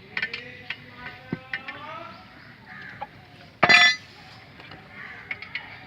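Small metallic clicks and clinks of hand tools on the clutch housing bolts, with one loud, short cry, pitched and rich in overtones, a little past halfway.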